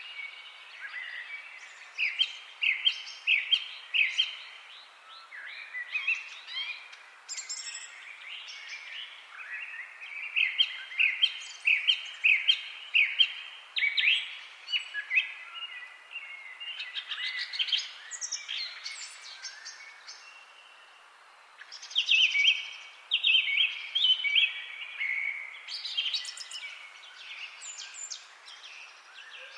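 Songbirds singing: phrases of rapid, repeated short chirping notes, one after another, over a faint steady hiss, with a brief lull about two-thirds of the way through.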